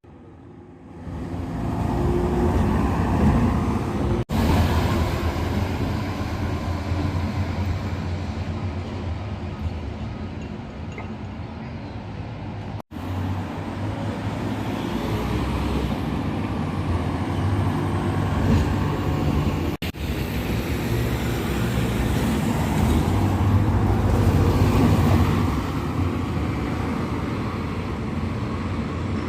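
A diesel vehicle engine running steadily with road-traffic-like noise, broken three times by very short dropouts.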